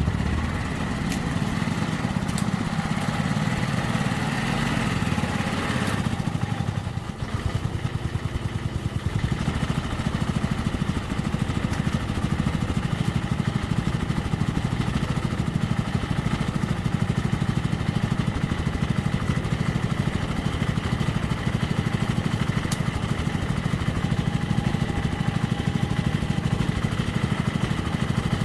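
A small engine running steadily at an even speed, with a brief dip a few seconds in.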